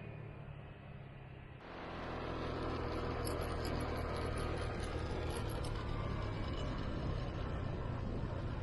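Motorbike engine running steadily while riding, with wind and road noise over it; it gets louder about a second and a half in.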